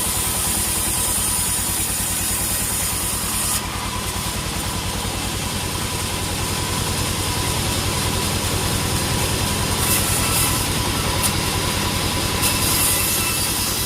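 Sawmill engine running steadily with a fast low pulse. A high hiss over it drops away about three and a half seconds in and comes back near the end.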